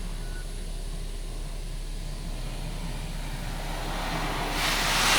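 Belanger Vector car wash starting its pre-soak, heard from inside the car: a steady low hum, then about four seconds in a hiss of spray rises quickly and turns loud as the pre-soak jets reach the vehicle.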